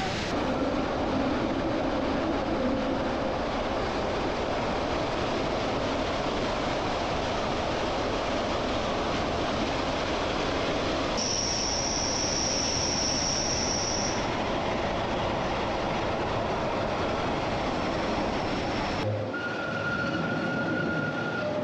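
Glacier Express train running along the track, heard from on board: a steady rush of wheels on rail, with a high wheel squeal held for about three seconds midway. The sound changes abruptly near the end, and a fainter whine comes in.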